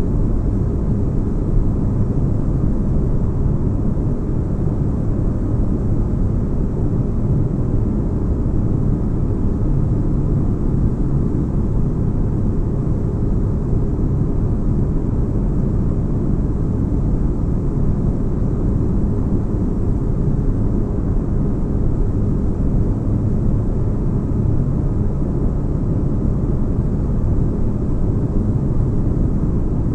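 Sci-fi spaceship interior ambience: a steady, deep bass rumble like a ship's engines heard from inside, with a faint low hum in it and no changes.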